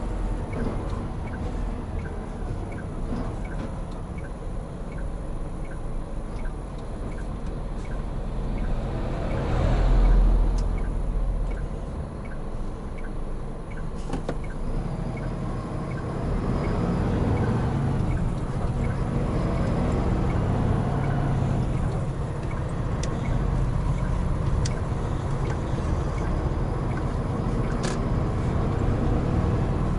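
Hino Profia heavy truck driving, its engine and road noise running steadily, with a swell in level about ten seconds in.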